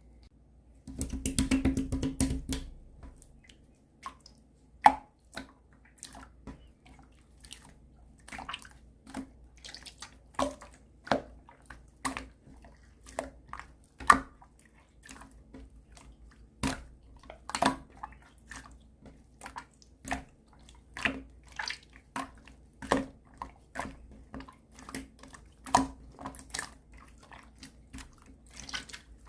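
Clear slime being mixed and squished by hand, giving sticky wet clicks and pops. A quick run of crackling comes about a second in, then single pops follow irregularly, roughly one or two a second.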